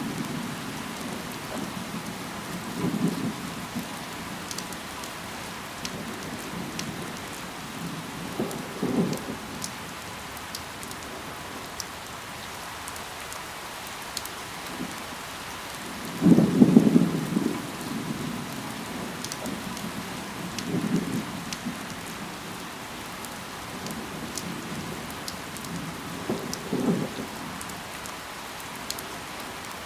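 Steady rain falling, with single drops ticking now and then. Five times a brief low rumble swells and fades over about a second, the loudest about halfway through.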